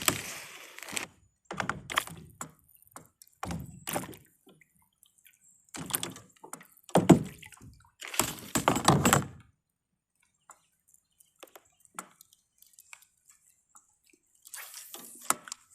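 Kayak paddle strokes, the blades splashing and dripping as they dip into the water about once a second for the first nine seconds or so, then a pause with small drips and one more stroke near the end.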